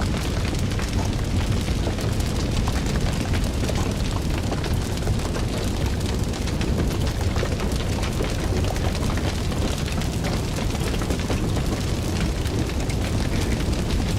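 Fire burning: a steady low rumble of flames with frequent small crackles and pops.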